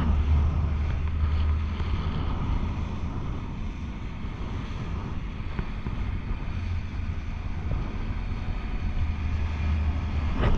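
Wind buffeting a handheld phone microphone high up on a parasail: a steady low rumble with a hiss of rushing air, easing off in the middle and building again near the end.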